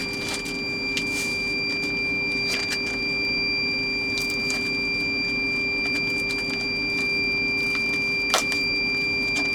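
A steady machine hum with a high whine runs throughout. Over it come a few short crinkles of plastic packaging being handled, the sharpest near the end.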